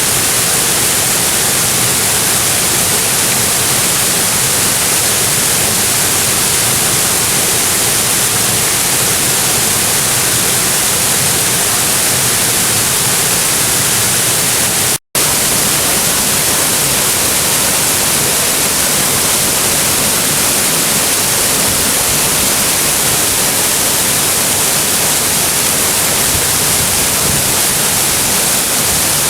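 Waterfall running high after rain, a steady, even rush of falling water. The sound cuts out for a split second about halfway through, then carries on unchanged.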